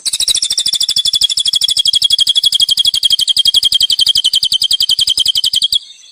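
A small songbird singing one long, fast rolling trill of about a dozen even notes a second, pitched high and sliding slightly lower. It stops abruptly near the end.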